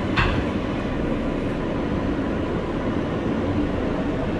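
R143 subway train running between stations: a steady rumble of wheels on rail with a constant hum, and one sharp clack just after the start.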